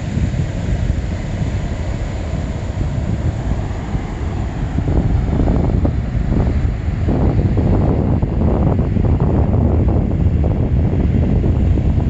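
Wind buffeting a smartphone's microphone: a loud, steady low rumble that grows stronger about five seconds in.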